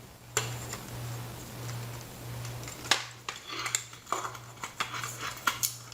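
Small clicks and rattles of wires and connectors being handled and joined while a ceiling fan's replacement capacitor is wired in, sharp ticks coming thick from about three seconds in. A steady low hum runs underneath.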